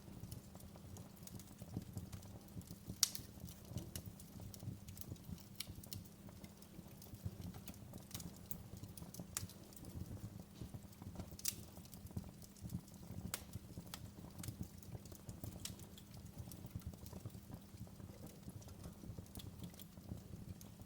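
Fire crackling in a fireplace: irregular sharp pops and snaps over a steady low rumble, with one louder pop about three seconds in.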